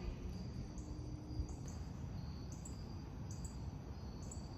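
Quiet evening outdoor ambience: insects chirping in short, high, repeating bursts over a steady low background rumble.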